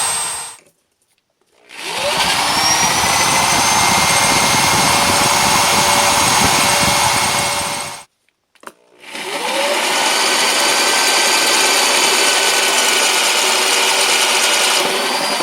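Electric drill drilling out a stripped fastener in metal, running in bursts: the first stops about half a second in, then it spins up with a rising whine, runs steadily for about six seconds, stops, spins up again and runs about six seconds more before winding down near the end.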